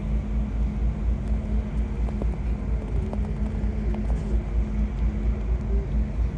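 Cruise ship's steady low rumble under way, with a constant hum from its engines and machinery.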